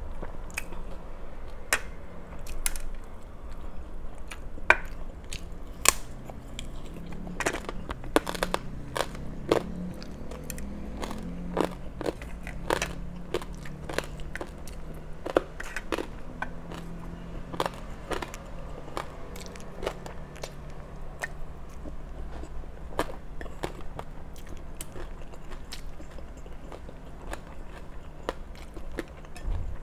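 Close-miked chewing and crunching of crispy pork and fresh vegetables: a run of sharp, irregular crunches, thickest in the middle.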